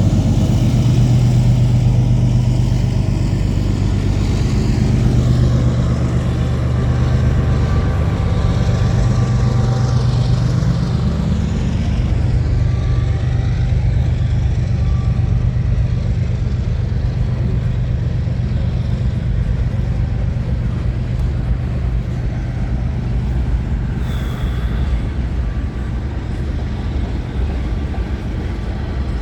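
Diesel engine of a CN GE Evolution-series mid-train DPU locomotive running under load as it passes. Its low drone is strong for about the first ten seconds and then fades, while the freight cars' wheels keep rolling on the rails.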